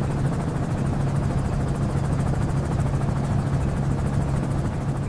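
Steady drone of an aircraft in flight, a constant low engine hum over rushing noise.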